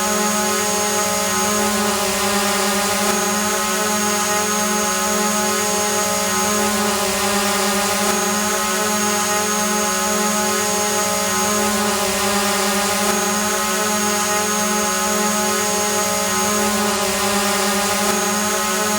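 A drone hovering: its propellers give a steady buzz that holds one pitch, with a thin high whine over it that drops out briefly about every five seconds.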